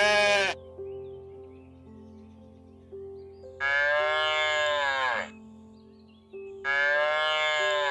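Sheep bleating: the tail of one bleat at the start, then two long bleats of about a second and a half each, each dropping in pitch at the end, over quiet background music.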